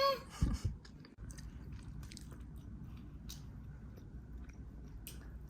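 Chewing, with scattered small crunching clicks close to the microphone. A held, pitched vocal note ends just as it begins, and a couple of soft thumps follow about half a second in.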